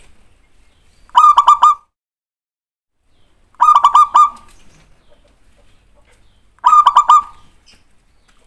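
Zebra dove (perkutut) singing: three short cooing phrases a few seconds apart, each a quick run of about four notes, played as a lure call to get other zebra doves singing.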